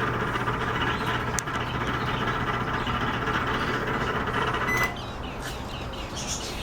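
Microwave oven running with a steady hum and a loud, horrible noise, which the owner thinks comes from the turntable motor that spins the plate. About two-thirds of the way through, the noise stops with a click and the level drops, leaving the hum.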